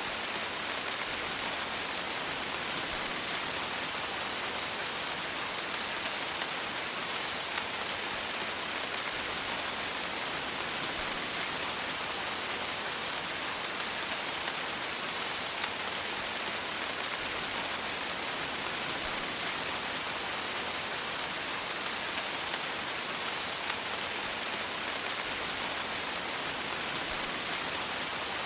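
Steady rain falling, a continuous even hiss of many raindrops with faint fine pattering.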